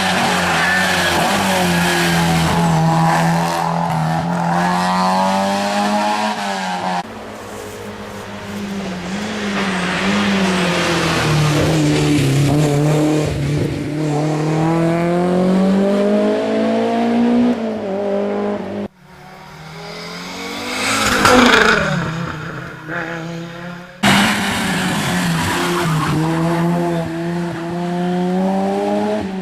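Historic rally cars' engines revving hard, pitch climbing and dropping through the gears, in several shots that change abruptly. About two-thirds of the way through, one car comes up loud and passes close by, its sound rising to a peak and falling away.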